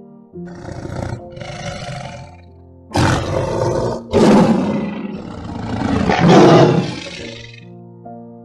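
A large animal giving a series of rough, noisy calls, two softer ones first and then louder ones from about three seconds in, over soft piano background music.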